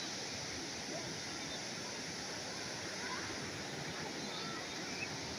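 Calm sea waves giving a steady rushing wash, with a few faint short cries or voices in the distance.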